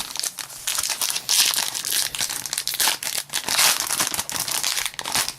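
A trading-card pack wrapper crinkling and tearing as it is opened by hand, in irregular rustling bursts.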